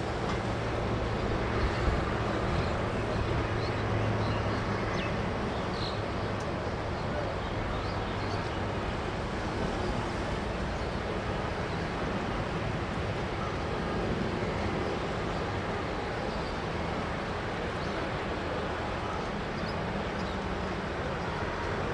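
Steady airliner jet engine noise with a low hum underneath.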